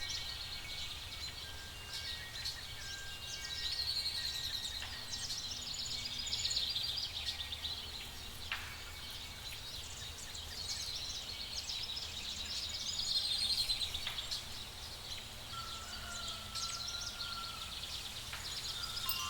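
Night forest ambience: dense, continuous high-pitched chirping over a low steady rumble, with a short whistled call about 16 seconds in.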